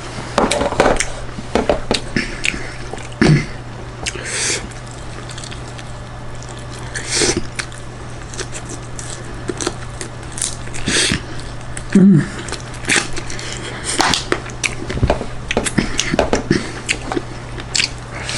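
Close-miked eating of rice, chicken and mango pickle: irregular chewing with many short wet mouth clicks, over a steady low hum.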